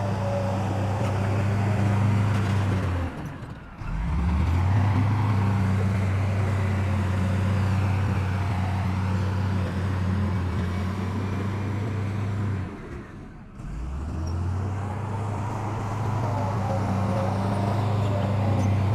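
Heavy diesel engine of earthmoving machinery running steadily at a low, even pitch. The sound briefly drops away twice, about three and a half seconds in and again about thirteen seconds in, then resumes.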